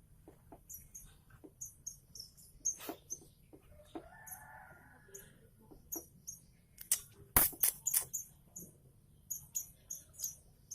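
Young weaver chicks begging with short, high chirps repeated in quick series, which calling chicks do when they are hungry. A few sharp clicks, the loudest about seven seconds in.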